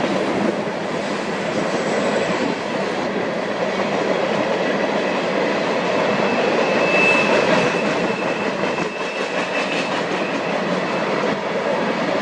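Union Pacific freight train rolling past, a steady rumble and clatter of its wheels on the rails. A thin high wheel squeal rises about halfway through and fades.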